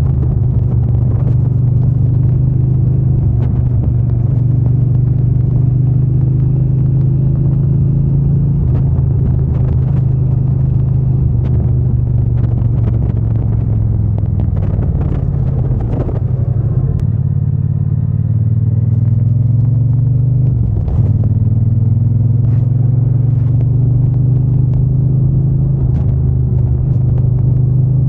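Triumph Bonneville T120's 1200 cc parallel-twin engine and exhaust running steadily under way. The engine note dips and climbs back twice, about halfway through and again a few seconds later.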